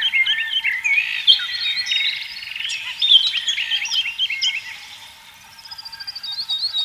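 Several songbirds singing at once, a dense chorus of quick chirps and whistled notes that thins out about five seconds in, then a single bird repeating a rapid series of short high notes near the end.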